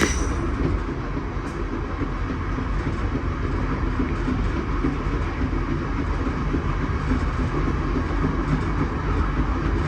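A moving passenger train rumbling steadily along the rails, heard from inside a Budd stainless steel sleeping car, with wheel clatter over the track.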